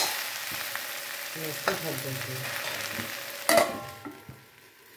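Sliced okra sizzling in oil in a metal kadai while being stirred with a metal spatula, with a few scrapes against the pan. About three and a half seconds in, a stainless steel plate is set over the kadai as a lid with a ringing clank, and the sizzle goes muffled and quiet.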